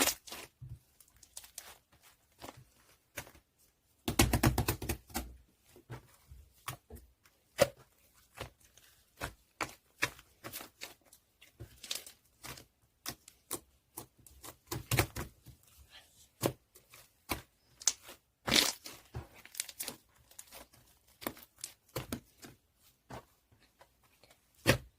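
Small handling sounds: scattered clicks, taps and crinkles at an uneven pace, with a denser rustle about four seconds in and a sharper crackle about eighteen seconds in.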